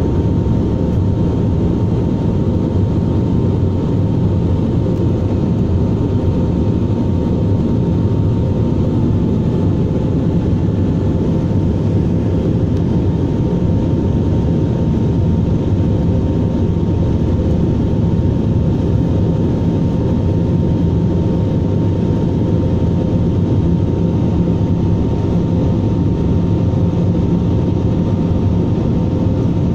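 Airbus A320 jet engines running steadily: an even, unchanging drone with a low rumble and a faint steady whine.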